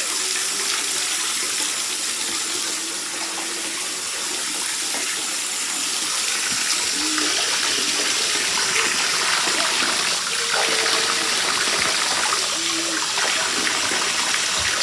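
Bath tap running steadily into a filling bathtub.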